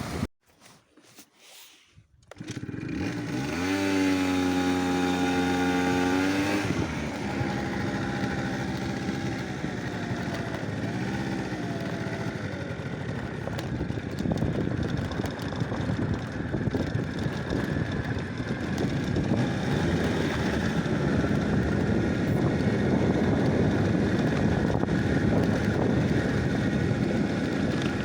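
After a brief near-silent gap, an engine revs up about three seconds in and holds a steady high pitch for a few seconds. It then runs on with a rougher, noisier sound.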